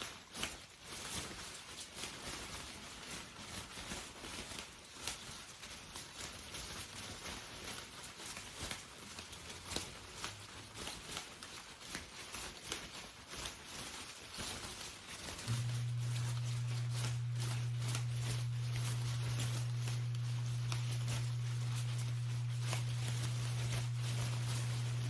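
Rain pattering, with many separate drops ticking. About fifteen seconds in, a steady low hum starts and runs on louder than the rain.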